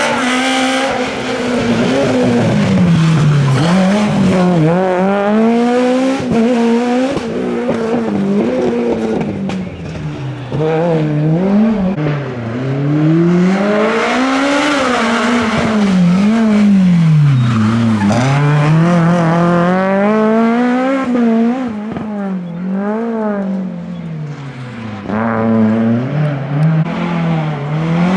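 A rally car engine revved hard, its pitch climbing and dropping over and over through upshifts and lifts for corners, with a few short sharp cracks along the way.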